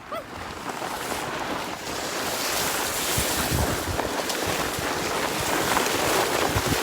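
A sled sliding down a hill, a steady rushing scrape that builds over the first two seconds, with wind buffeting the microphone and a few low thumps as it hits bumps.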